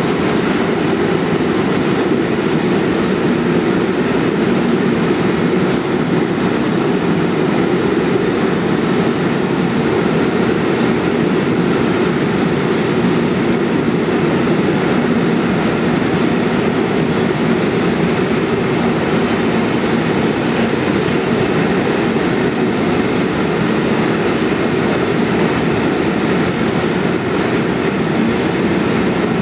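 Long container freight train rolling past at a steady speed: a continuous, even low rumble of wagon wheels on the rails.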